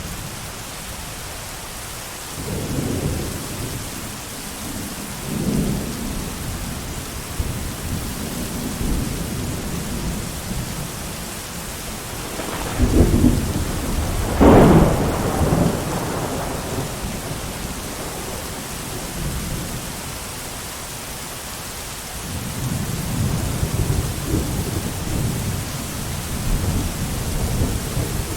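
Steady heavy rain with thunder rumbling through it: low rolls early on, a louder, sharper thunderclap about halfway through, and more rolling rumble near the end.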